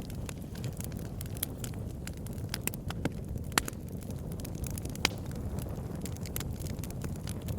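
Campfire burning: a steady low rumble of flames with irregular sharp crackles and pops several times a second. Two louder pops come about three and a half and five seconds in.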